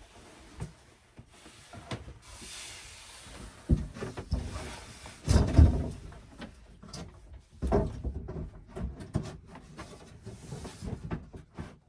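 Handling noise: a series of knocks and bumps as objects are moved about, the loudest about five and a half seconds in and another near eight seconds, with short stretches of rustling between.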